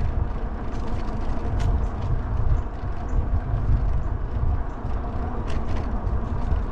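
Wind rumbling on the microphone of a moving fat-tire e-bike, mixed with road noise, with a few faint clicks.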